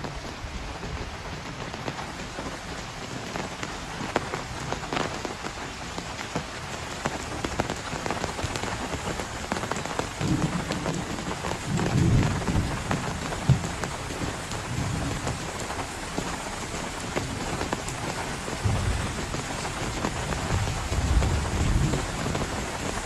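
Heavy rain pouring steadily, with low rumbles swelling up about ten seconds in and again near the end.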